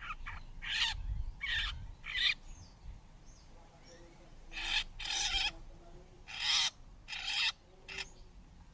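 Long-tailed shrikes giving a series of short, harsh, hissing screech calls, about eight in all, with a pause of roughly two seconds midway.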